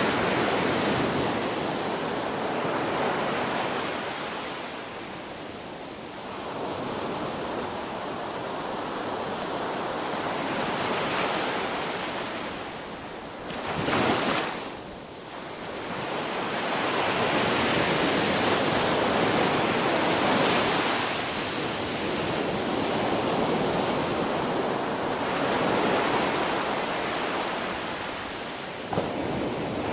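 Ocean waves breaking on a beach, the surf swelling and fading every few seconds, with one sharper, shorter crash about halfway through.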